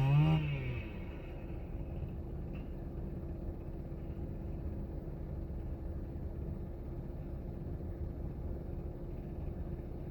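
A motor winding down and stopping in the first second, after a short rise in pitch. It leaves a steady low rumble with one faint constant hum.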